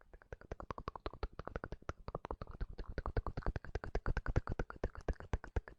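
Rapid close-miked clicking, about nine or ten sharp clicks a second, uneven in loudness.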